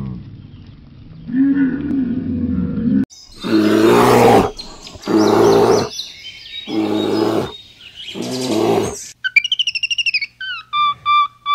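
A camel's low moaning grumble, then a brown bear roaring four times, each roar about a second long. Near the end come quick, high-pitched chirping calls from a monkey.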